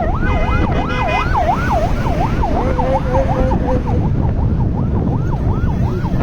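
Emergency-vehicle siren rapidly sweeping up and down, about two cycles a second, over a heavy rumble of wind and road noise. A steady horn-like tone sounds for about a second near the start.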